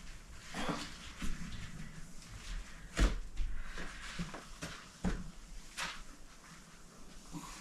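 Cloth and spray cleaner wiping the outside of a refrigerator, with scattered rubbing and light knocks against the fridge. The sharpest knock comes about three seconds in, and another about five seconds in.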